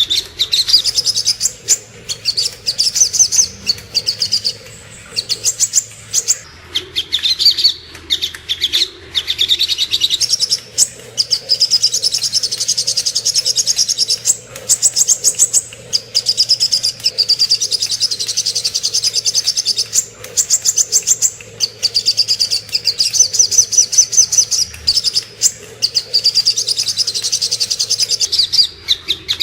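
Sogok ontong (a spiderhunter) singing: fast runs of sharp, high chirps strung into phrases a few seconds long, with short breaks between them.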